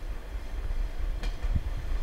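Electric commuter train approaching along a snow-covered track: a steady low rumble with two faint clicks a little past the middle.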